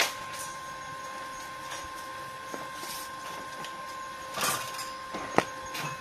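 Steady high-pitched machine whine, with a sharp click at the start, a short rustling clatter about four and a half seconds in, and a sharp knock soon after.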